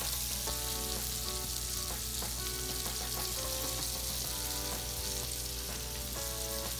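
Chopped white spring onion sizzling steadily in hot melted butter in a pan, being stirred.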